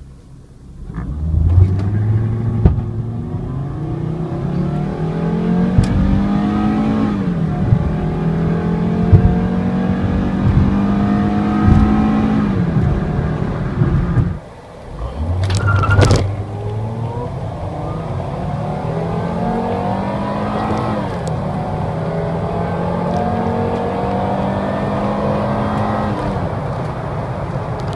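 2001 Volvo S60's naturally aspirated 2.4-litre five-cylinder (B5244S) accelerating hard through the gears. The engine note rises steadily and drops at each upshift. It happens twice: one full-throttle run, a break about halfway, then a second run from low revs.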